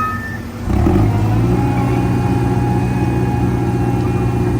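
Casey Jr. Circus Train's engine coming on and running steadily with a loud, even hum that starts under a second in, after a brief high tone.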